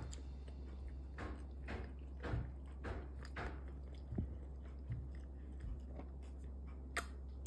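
A child chewing a mouthful of pizza close to the microphone, with soft wet clicks and smacks about once or twice a second.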